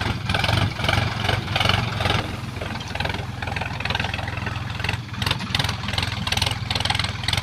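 Diesel engine of a Sonalika DLX RX 50 4WD tractor running with a steady low drone and an uneven pulsing above it.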